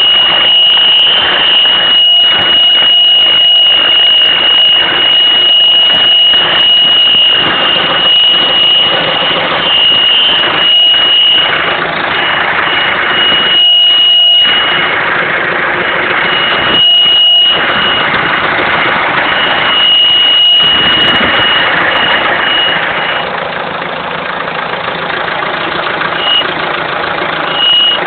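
Citroën C4 HDi diesel engine idling on a cold morning warm-up with a high-pitched whistle over it. The whistle holds steady for the first dozen seconds, then breaks up and comes and goes. It appears only during the first minutes of a cold warm-up, and the owner links it to the turbo.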